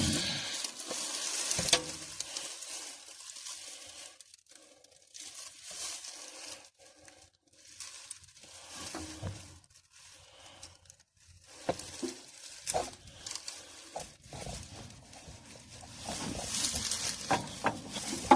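Hand tools clinking, knocking and scraping on metal around a truck's starter while it is being unbolted, with rustling in between and a busier run of clicks near the end.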